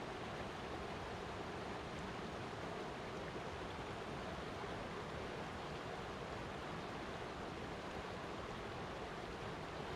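Flowing water rushing steadily, an even noise without breaks or changes.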